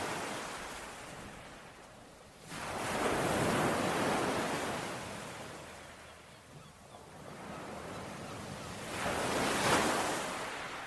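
Sea waves washing onto a shore as a steady rush, with one wave surging in about two and a half seconds in and another near the end.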